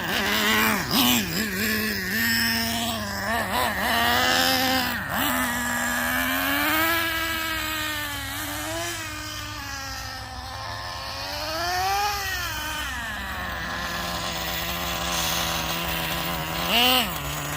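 Traxxas Nitro Revo 3.3's 3.3 cc two-stroke nitro engine revving up and down as the truck is driven, its pitch repeatedly rising and falling. About thirteen seconds in it drops back to a steady idle.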